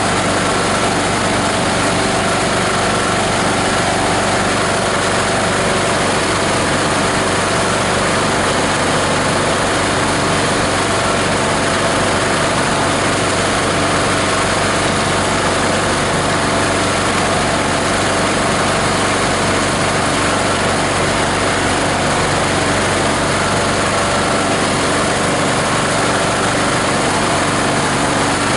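An 18 HP diesel engine driving a multi-blade plastic grinder, running steadily at a constant speed.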